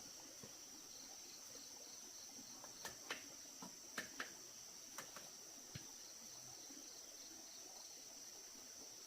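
Insects chirring steadily at a high pitch, with a faint pulsing chirp during the first half. A few light taps come a few seconds in.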